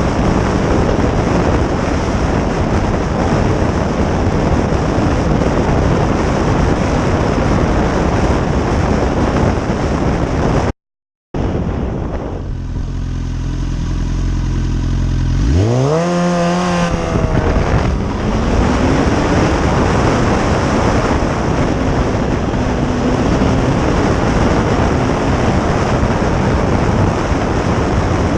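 Motorcycle ride with heavy wind rushing over the microphone. After a short cut about eleven seconds in, the engine is heard running steadily at low speed, then revs up with a rising pitch as the bike pulls away, and the wind noise builds again.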